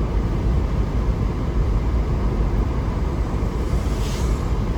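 Steady low rumble of a vehicle driving, heard from inside the cabin, with a brief hiss about four seconds in.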